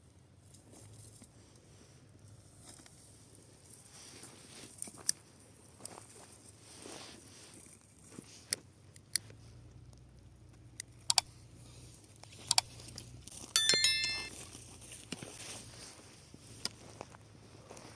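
Burning dry grass and brush crackling, with scattered sharp pops every second or two. About fourteen seconds in comes the loudest pop, followed by a short, bright metallic ring.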